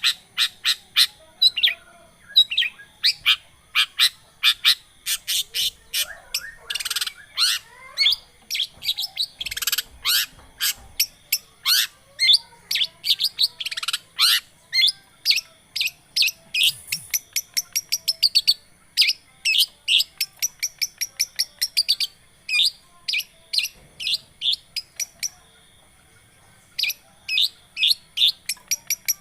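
Long-tailed shrike (cendet) singing: a rapid, steady run of sharp, high chirps, several a second, with a short break near the end. It is a lure recording meant to get captive shrikes that have gone quiet singing again.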